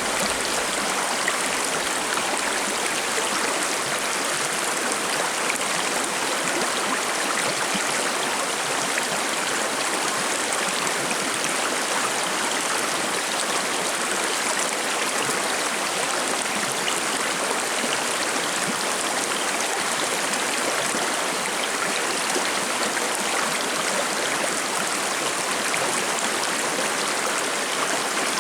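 Shallow forest stream babbling and splashing over rocks, a steady rush of water.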